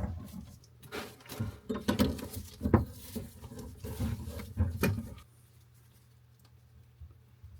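Irregular knocks, clicks and rustling of hands handling faucet supply hoses and fittings under a bathroom sink, stopping about five seconds in. A low steady hum runs underneath.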